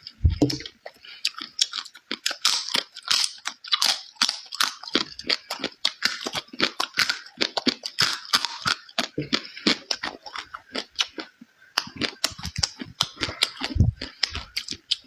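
Close-up chewing of food: a dense run of short wet clicks and crunches from the mouth, with a couple of dull low thumps near the start and near the end.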